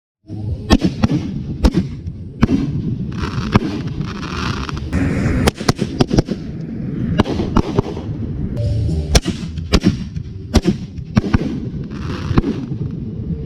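Fireworks going off: a rapid, irregular series of sharp bangs, several a second at times, with stretches of hissing or crackling between them.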